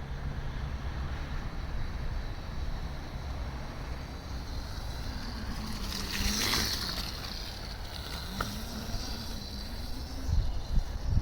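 EBOX Stomp electric dirt bike passing, its brushless motor whine dipping and rising in pitch and loudest about six and a half seconds in, over steady wind noise on the microphone. Heavy wind buffeting comes in near the end.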